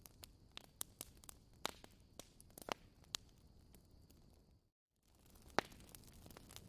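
Wood fire crackling in a fireplace: irregular sharp pops and snaps over a soft hiss, with a louder crack near the end. About two-thirds of the way through the sound cuts out completely for a fraction of a second, then the crackling resumes.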